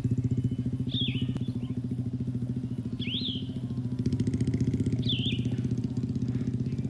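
A small engine running steadily at idle with a fast, even putter. Over it, a bird gives a short whistled call four times, about every two seconds.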